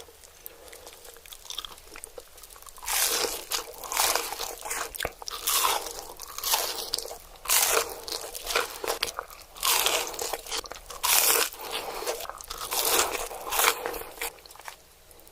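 Close-miked ASMR eating sounds: a rapid series of crunchy bites into pizza and crispy chicken nuggets. They come roughly one a second, starting about three seconds in.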